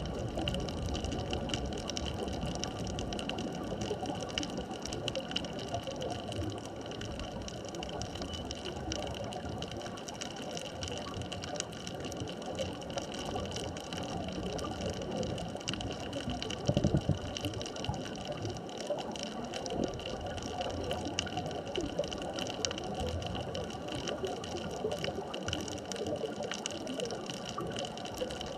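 Underwater ambient noise heard through a dive camera: a steady crackling hiss with a few faint constant tones, and one brief louder rush about seventeen seconds in.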